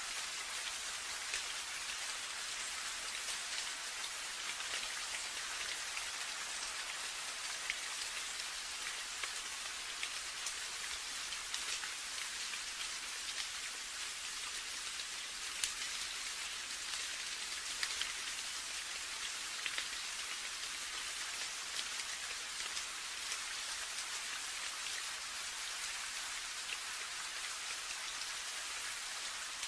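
Steady rain falling, a constant hiss with many separate drops pattering distinctly on a surface.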